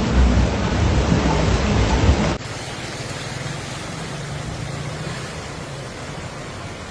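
Loud rushing storm noise of wind and rain, heaviest in the low end. It cuts off suddenly a little over two seconds in to a quieter, steady hiss.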